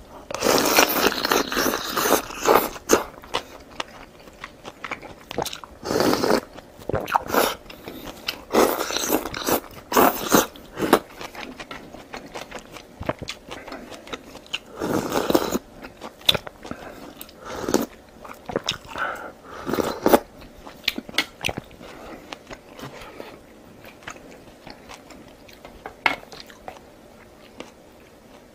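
Close-miked eating: crunchy bites and chewing in irregular bursts, busiest in the first few seconds and thinning out toward the end.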